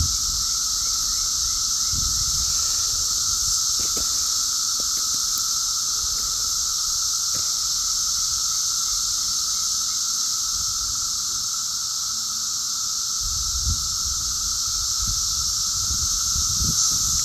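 Dense chorus of 17-year periodical cicadas: a loud, steady, unbroken droning buzz. Low rumbling on the microphone comes in during the last few seconds.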